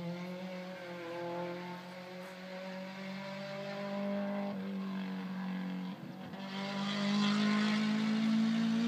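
Toyota AE86's 4A-GE 20-valve Silvertop four-cylinder engine running at high revs on the circuit. Its note dips twice around the middle, then climbs in pitch and grows louder toward the end.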